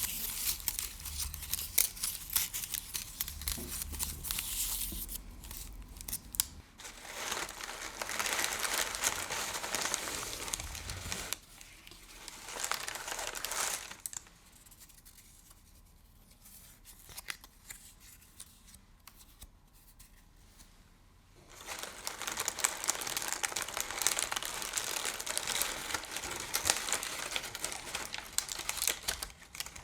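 Crinkly material being crumpled and rustled close to the microphone, in long stretches that break off for a quiet pause of several seconds midway, then resume.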